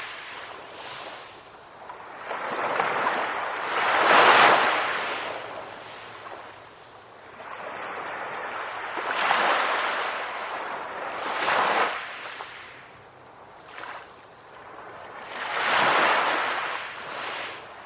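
Ocean waves washing up on a beach, swelling and ebbing in four surges, the loudest about four seconds in.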